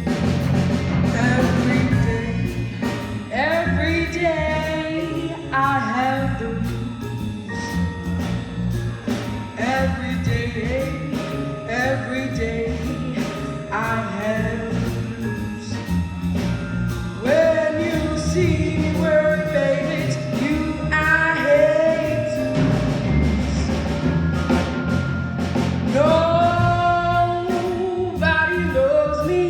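A vocalist singing a melody over a live band of drum kit, bass guitar and vibraphone.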